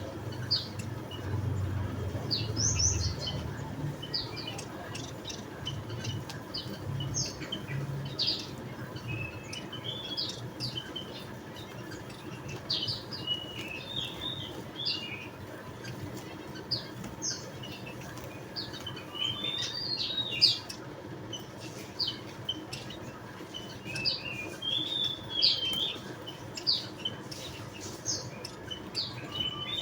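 Javan munias giving short, high chirps at irregular intervals, now single, now a few in a quick twittering run.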